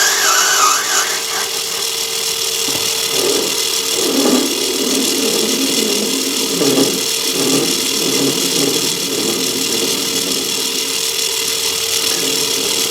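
Myford ML7 lathe running with a steady hum and whine while a parting tool in a rear tool post cuts into the spinning workpiece. Uneven rough cutting noise comes and goes from about three seconds in to about ten seconds in. The cutter height has just been lowered, and the cut is going better.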